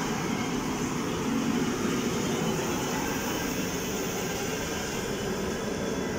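Passenger train of blue Indian Railways coaches rolling along the track with a steady rumble of wheels on rails.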